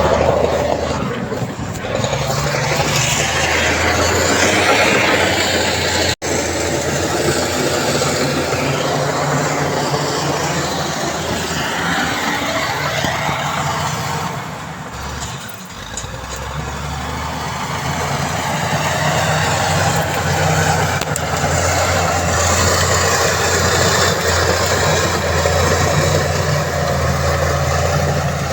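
Heavy diesel engine of earthmoving machinery running steadily under load, with a brief drop in level about halfway through.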